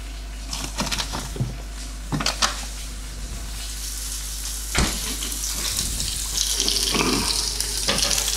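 Kitchen work: a handful of sharp knocks and clinks of utensils and dishes in the first half, then a steady hiss that builds through the second half.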